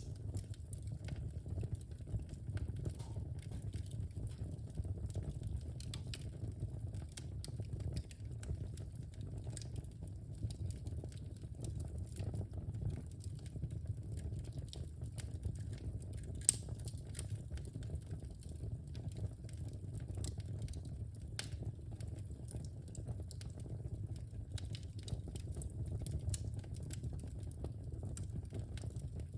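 Wood fire burning in a fireplace: a steady low rumble of flames with irregular small crackles and pops, one sharper pop about halfway through.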